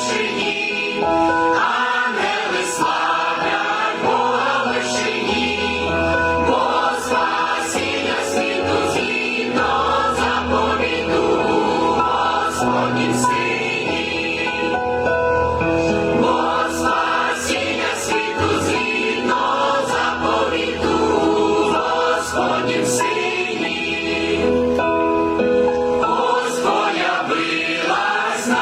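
A choir singing a Ukrainian Christmas carol.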